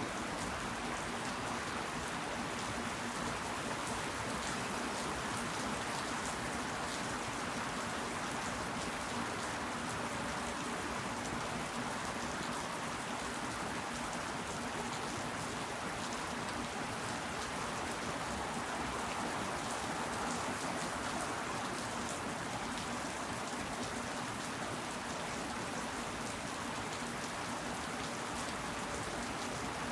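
Steady rain falling: an even hiss with a fine patter of drops that stays level throughout.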